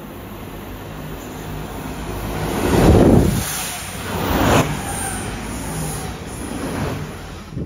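A passenger train passing close by on the adjacent track. Its noise builds as it approaches and peaks loudest about three seconds in as the front goes by, swells again a moment later, then runs on as a rumble while the coaches pass, and cuts off suddenly at the end.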